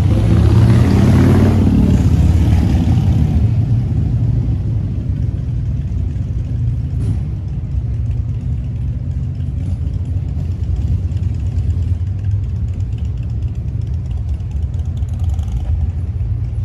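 Motorcycle engine rumble, loudest and rising in pitch in the first three seconds as an engine revs or passes close by, then settling into a steady lower rumble.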